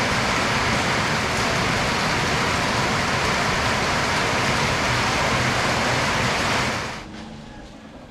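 Steady heavy rain, a dense even hiss that drops away suddenly near the end.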